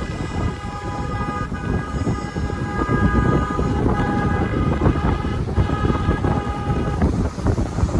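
A vehicle horn blows in about four long blasts with short breaks, a chord of several steady tones, and stops shortly before the end. Under it a Royal Enfield Himalayan 450 motorcycle is running along the road, with wind rumble on the microphone.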